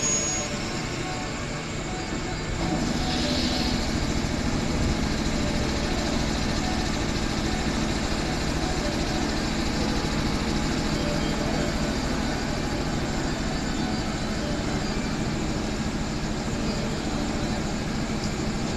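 JR West 221 series electric train pulling into the platform and slowing to a stop, its running noise rising about two and a half seconds in and then holding steady, with a steady low hum underneath.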